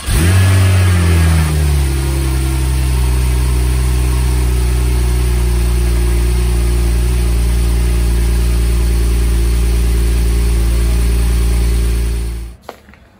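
Porsche 991 Turbo's twin-turbo 3.8-litre flat-six on its stock factory exhaust, starting up with a brief flare of revs for about a second and a half, then settling to a steady idle. The sound cuts off near the end.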